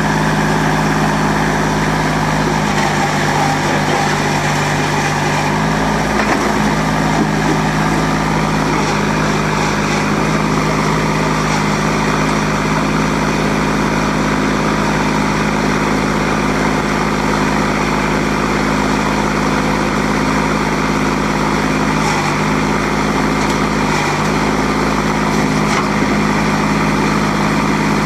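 Kubota L35 tractor's 35 HP diesel engine running steadily, its note stepping up slightly about five seconds in.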